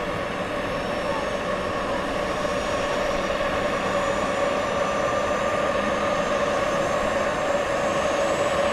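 A radio-controlled scale model helicopter running up on the ground before take-off: a steady motor whine with the rotor turning, growing gradually louder.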